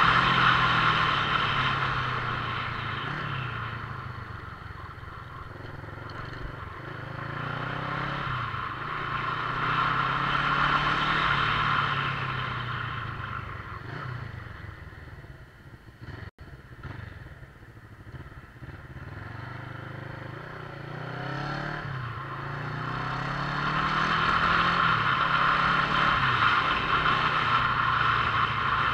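Motorcycle engine heard while riding, its pitch rising and falling again and again as the bike speeds up and slows through the gears, louder in swells near the start, around ten seconds in and near the end. The sound drops out for an instant about halfway through.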